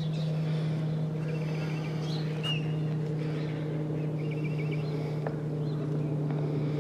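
Birds chirping in short bursts, a few times, over a steady low hum that holds one pitch throughout.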